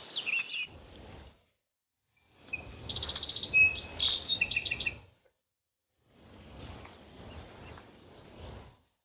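Birds chirping and trilling over low outdoor background noise, with a rapid trill about three seconds in. The sound breaks off twice into dead silence.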